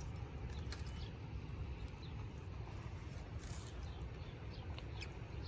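Outdoor ambience: a steady low rumble with scattered faint clicks and a few brief high chirps.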